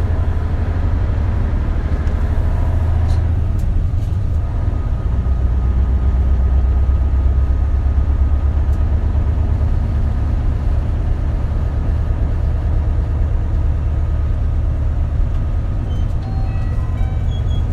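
Isuzu KL-LV280L1 city bus under way: a steady low diesel engine drone with road noise, its note changing about three seconds in.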